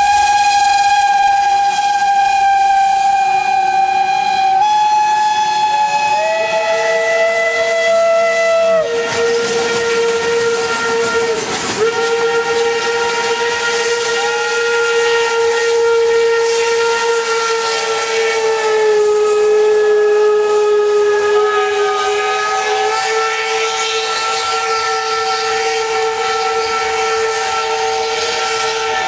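Several steam locomotive whistles blowing together in one long chord of different pitches, with steam hissing. Individual whistles cut in and drop out every few seconds, so the chord keeps changing.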